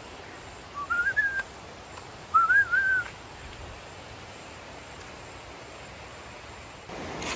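A bird giving two short whistled calls about a second apart, each rising and wavering in pitch. Near the end a steady rushing noise sets in.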